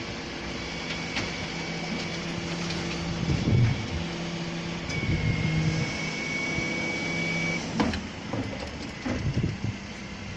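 Bin lorry's diesel engine running steadily, with a high steady whine for a few seconds in the middle and several knocks and clatters, the sounds of bins being lifted and emptied.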